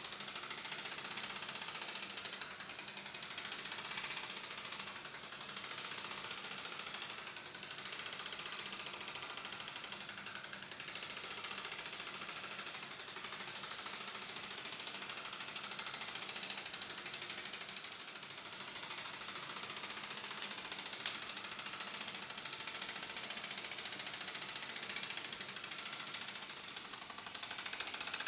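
A 1950s ADE toy steam tractor's small live-steam engine running steadily, with a rapid, even mechanical ticking and hiss. A single sharp click stands out about 21 seconds in.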